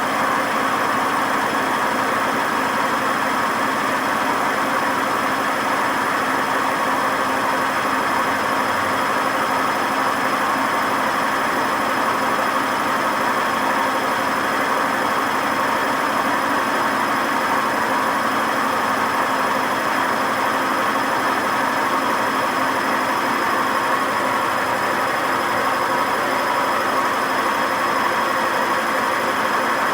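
WMA50 washing machine drum spinning at a steady high speed with its ballast weights removed, giving a loud continuous running noise with high whining tones from very bad, worn drum bearings.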